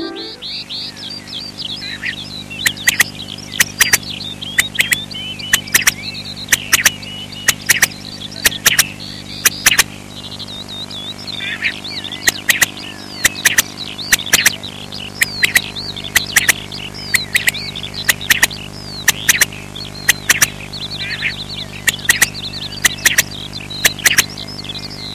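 Birdsong: many chirps and twitters throughout, with sharp clicks scattered through it and a low steady hum underneath.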